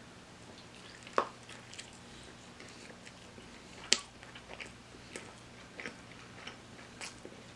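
A person biting into and chewing breaded fried chicken, close up: wet mouth clicks and smacks throughout, with two sharp, louder clicks, one about a second in and a louder one about four seconds in.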